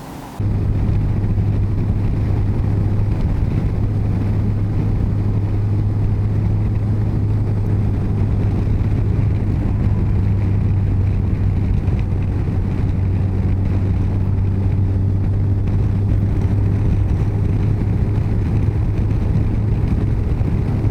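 Yamaha FJR1300's inline-four engine running at a steady cruising speed while riding, a constant low drone that cuts in abruptly about half a second in.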